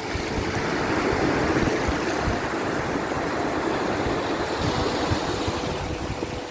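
Sea waves washing in, a steady rushing surge that swells about a second in and eases near the end, with faint held notes of soft background music.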